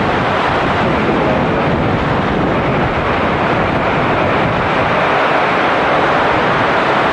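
Heavy tropical rain pouring down, a loud steady rushing hiss with no break.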